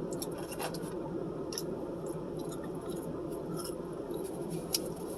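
Quiet eating sounds: soft scratchy rustling and a few small, sharp clicks, typical of chewing and handling food, over a steady background hum.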